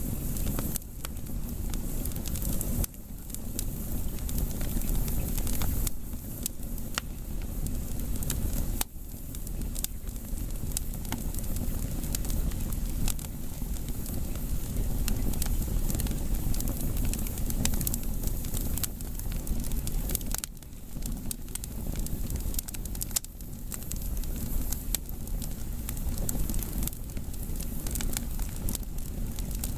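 Firewood burning in an open fire, with frequent sharp crackles and pops over a steady low rumble.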